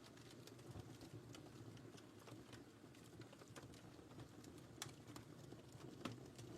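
Wood fire crackling in a fireplace, faint: a steady low rumble of the flames with scattered small pops, the sharpest about five seconds in and another near the end.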